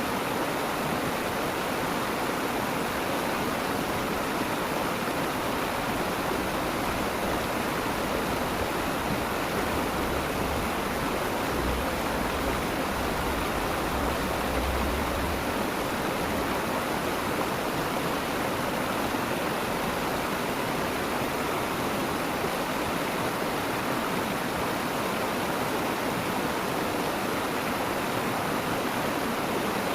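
Flowing stream or ditch water rushing steadily, with a brief low rumble about ten seconds in.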